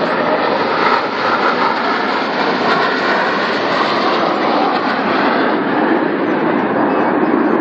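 Jet airplane engines in flight, a loud, steady rushing noise.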